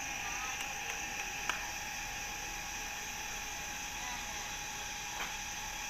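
Steady mechanical hum with a high hiss from a passenger train standing at the station, with a few faint clicks.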